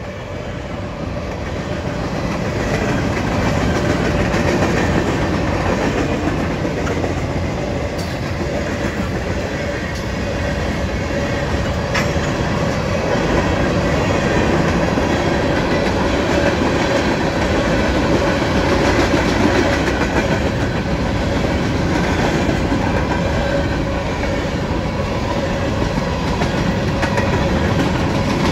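Norfolk Southern freight train of covered hopper cars rolling steadily past, a continuous rumble of wheels on rail with occasional sharp wheel clicks. It grows louder over the first few seconds, then holds steady.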